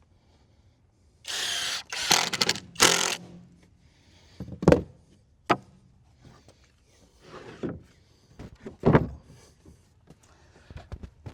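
Wood knocks and thuds from lumber being handled: a short rasping burst and two more dense bursts about a second in, then a few separate sharp knocks.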